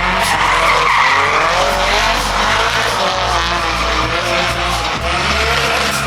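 A car drifting: its engine revving hard, the pitch climbing and dropping, over a continuous squeal of tyres.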